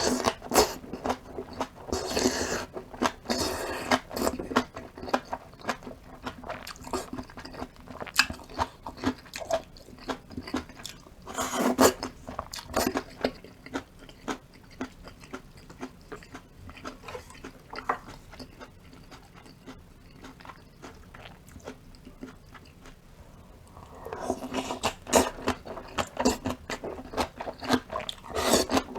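Close-miked eating: a person chewing and crunching food, with many sharp wet clicks and crackles. The chewing comes in dense, louder spells at the start, about twelve seconds in and over the last five seconds, with quieter chewing between.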